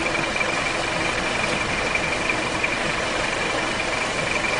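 Car engine idling steadily, with a thin, steady high-pitched whine over the running noise.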